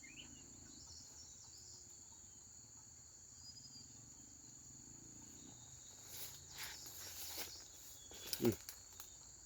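Steady high-pitched chirring of insects in the background, with a few faint rustles and knocks about six to eight and a half seconds in.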